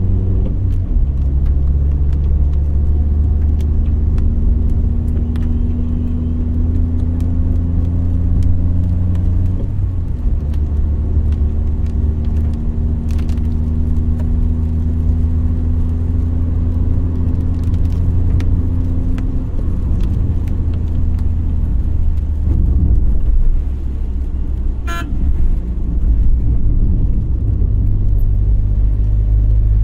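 Car driving in traffic: a steady low engine drone and road rumble, its pitch shifting now and then with speed, and a brief beep near the end.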